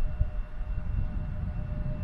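Boeing 787-8 jet engines running, a steady whine over a low, gusty rumble.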